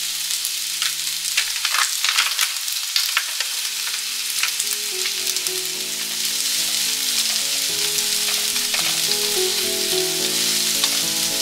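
Chicken thigh, sliced onion and shimeji mushrooms sizzling in olive oil in a frying pan, with a spatula clicking and scraping as they are stir-fried, busiest in the first few seconds.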